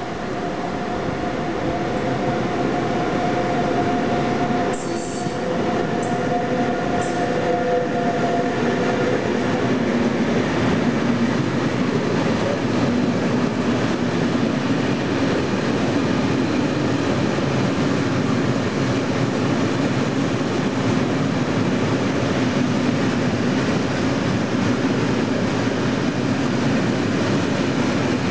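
Electric train running through the station. A steady two-tone whine fades out about nine seconds in, with a few brief high squeals around then, and is followed by a constant rolling rumble of wheels on rail.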